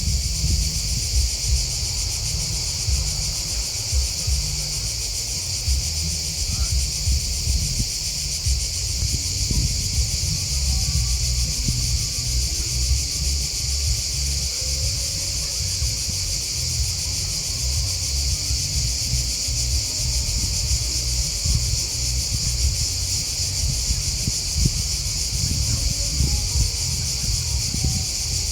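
Steady, unbroken chorus of chirping crickets and grasshoppers, high and shrill, with an uneven low rumble underneath.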